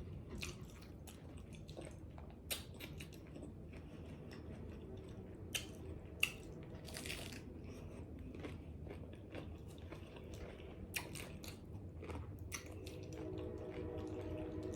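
Close-miked eating: biting into and chewing pizza tacos in crisp taco shells, with sharp crunches every few seconds over steady chewing.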